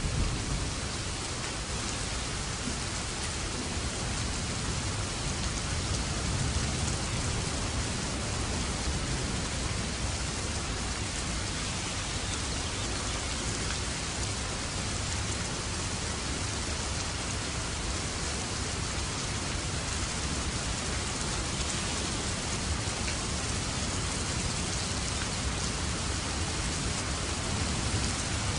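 Steady rain falling without a break, with a low thunder rumble underneath.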